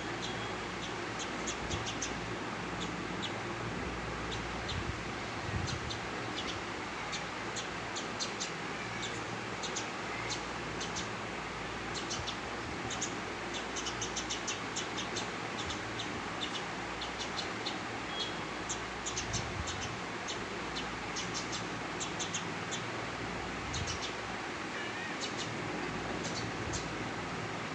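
Small birds chirping, with many short, high chirps coming in quick clusters throughout, over a steady background hiss.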